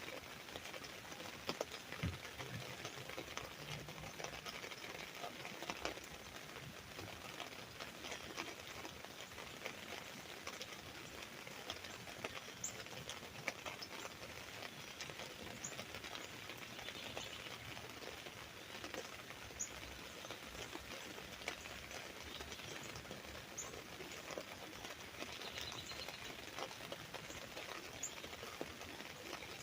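Rain falling steadily on an umbrella, a dense patter of small drop ticks. From about twelve seconds in, short high bird chirps come every few seconds.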